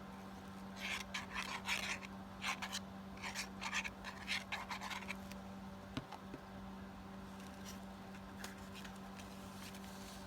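Paper and card rubbing and rasping in a quick run of short strokes, then a single sharp click about six seconds in. A steady low electrical hum runs underneath.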